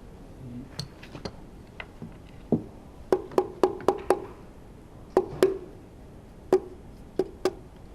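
Sharp taps on Honda F1 engine parts, about a dozen in irregular clusters with the densest run in the middle, each leaving a short metallic ring. They come from knocking a cylinder's piston and connecting-rod assembly loose during teardown.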